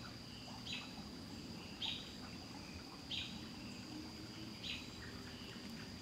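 A bird's short call, falling slightly in pitch, repeated four times about a second apart, over a steady high-pitched insect drone.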